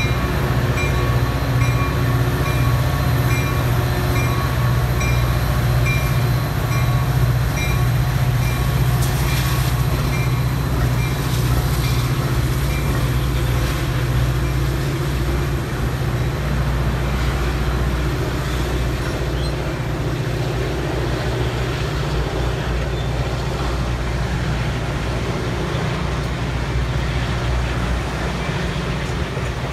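A diesel-powered train running past on the line, its locomotive engine drumming steadily under the rumble of the cars. A bell rings at an even pace, about twice a second, for the first several seconds.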